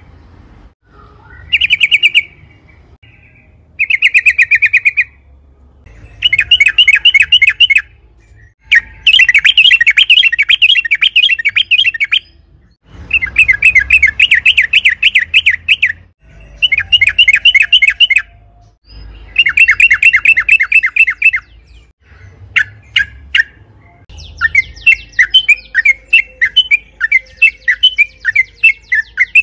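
Yellow-vented bulbul (trucukan) singing in repeated bursts of rapid chattering notes, each burst a second or two long with short pauses between. Near the end come a few single sharp notes, then a quicker, looser run of chirps.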